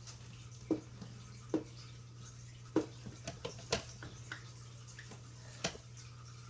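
Dry-erase marker tapping and stroking on a whiteboard while colouring in: about eight short, irregular taps and squeaks over a steady low hum.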